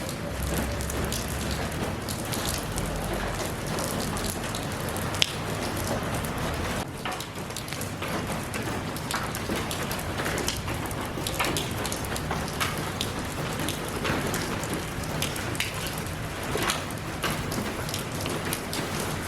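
Steady rain falling, a continuous hiss with many separate drops striking close by. About five seconds in, one drop lands with a sharper, louder click.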